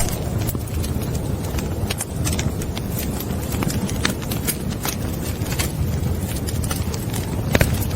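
Wood fire burning in a fireplace: a steady low rumble of flames with irregular crackles and pops, one sharper pop near the end.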